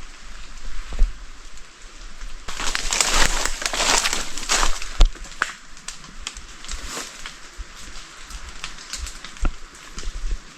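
Rustling and crunching of dry leaves and undergrowth, with scattered sharp clicks and snaps. It is loudest from about two and a half seconds in for a couple of seconds.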